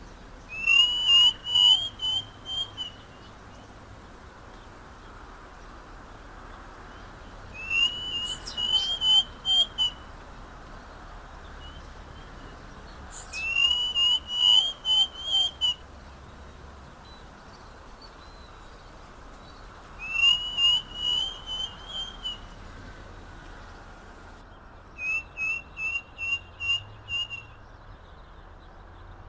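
Striped cuckoo singing: five runs of quick, short whistled notes, each run about two seconds long and rising slightly in pitch, with pauses of several seconds between them.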